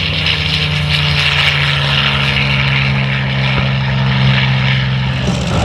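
Propeller-driven P-40N Warhawk's Allison V-1710 V-12 engine running with a steady deep drone; its pitch dips slightly about one and a half seconds in.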